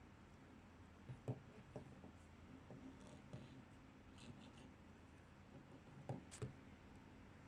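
Faint handling of packaging: a few soft knocks and light scratchy rustles, with two pairs of knocks about a second in and about six seconds in, against near silence.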